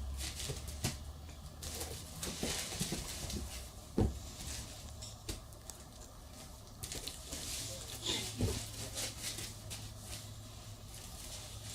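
Scattered light knocks and clicks of toy blocks and a toy train being handled and set down, with a sharper knock about four seconds in and another about eight and a half seconds in.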